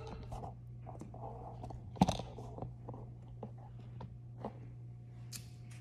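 Close-miked mouth sounds of chewing food, with a sharp knock about two seconds in and a few lighter clicks.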